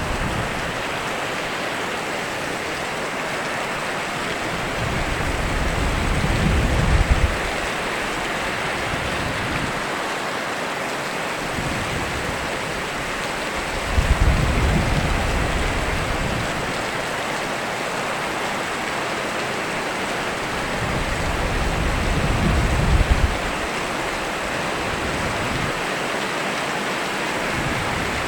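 Steady rain falling, an even hiss throughout. Deep low rumbles swell up three times, about every eight seconds, each ending in a brief louder peak.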